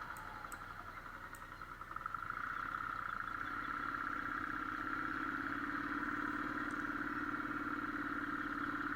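Motorcycle engine running steadily under way, getting a little louder about two seconds in, when a lower steady note joins the drone.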